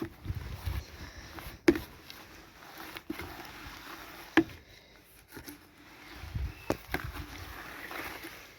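Water sloshing and splashing as a shirt is pushed around in a container of tea dye, with a few sharp knocks or clicks against the container.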